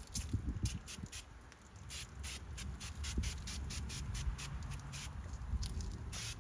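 Microfiber cloth wiping over car interior surfaces in quick, irregular strokes, each a short swish, over a steady low rumble.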